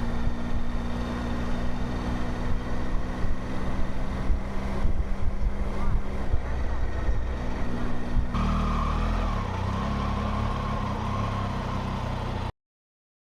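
Motorcycle engine, the Triumph Tiger, running steadily. About eight seconds in the sound changes abruptly and a wavering higher whine joins it, then everything cuts off suddenly shortly before the end.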